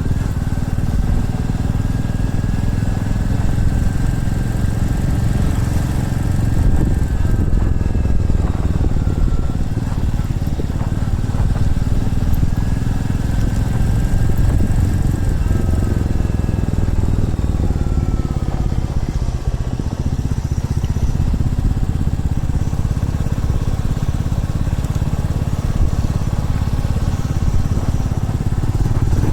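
Motorcycle engine running while riding, over a steady low rumble. Its pitch slides down twice, about seven seconds in and again about seventeen seconds in.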